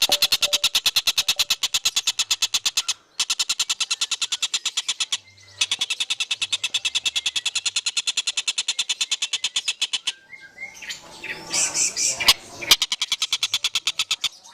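A bird singing a long, rapid trill of evenly repeated high notes, about a dozen a second, with two short breaks. The trill stops about ten seconds in and gives way to scattered irregular chirps.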